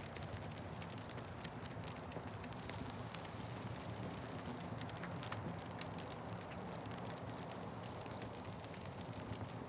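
Wood fire crackling: many small, irregular sharp pops over a steady low rumble of burning.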